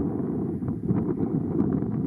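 Wind buffeting the microphone outdoors: a steady, fluctuating low noise with faint crackles.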